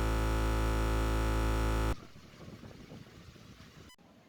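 A sustained electronic synthesizer chord, held perfectly steady, that cuts off abruptly about two seconds in, leaving only faint background noise with a small click near the end.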